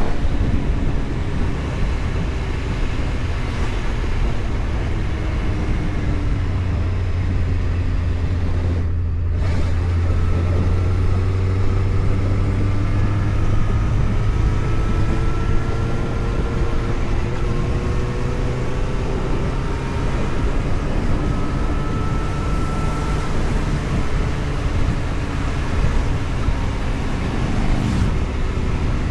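Vehicle engine running while driving along, its pitch gently rising and falling with speed over steady road and wind noise, with a brief break in the higher sound about nine seconds in.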